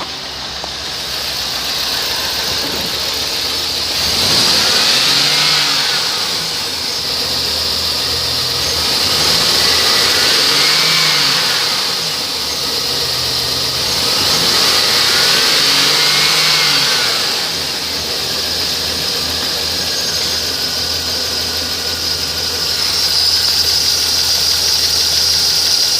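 2006 Chevrolet Suburban's V8 engine, which runs a little rough, idling and revved up and back down three times, with a steady high-pitched squeal running through it.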